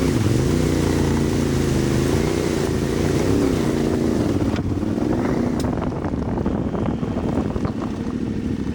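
Adventure motorcycle engine running under load, its pitch rising and falling as the throttle is worked, with a rushing noise over it that fades about two-thirds of the way through.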